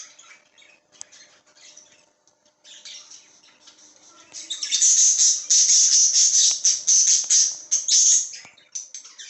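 Baby budgerigar chicks calling: soft scattered scratchy chirps at first, then a loud run of rapid, raspy squawking from about halfway through that dies down near the end.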